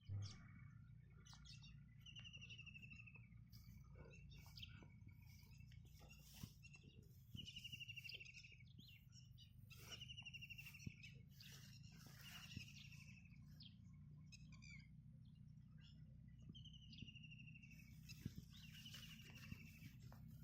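Faint bird calls: short buzzy trills, each about a second long, repeat five or six times among scattered high chirps and clicks, over a low steady hum.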